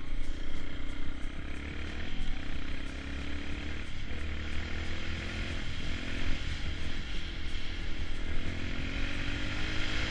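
Dirt bike engine running, its pitch rising and falling repeatedly as the throttle is worked.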